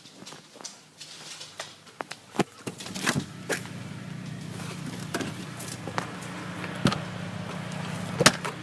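Scattered footsteps and knocks, then from about three seconds in a steady low mechanical hum of a running engine or machine.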